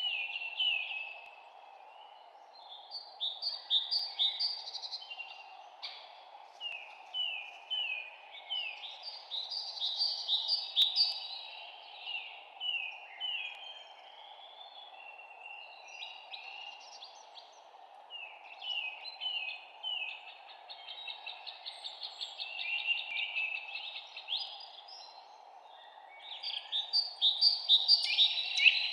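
Songbirds chirping in repeated phrases of quick, falling notes, several birds overlapping, over a steady low background hiss.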